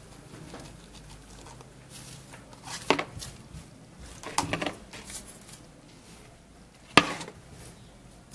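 Homemade slime being stretched and handled, with sticky crackles and a few sharp pops, the loudest about seven seconds in.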